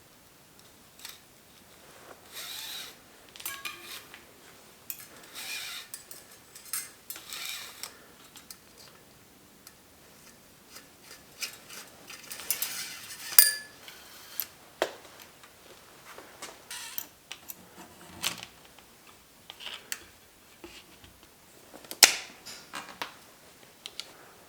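Bicycle workshop handling sounds: metal tools and bike parts clinking and clicking at irregular intervals, with several short scraping or hissing sounds between them.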